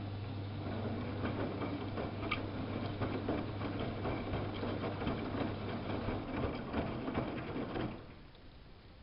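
Samsung WF71284 front-loading washing machine running: a steady low hum with fast, dense rattling and clicking over it. The hum fades about six seconds in and the rattling stops suddenly about eight seconds in.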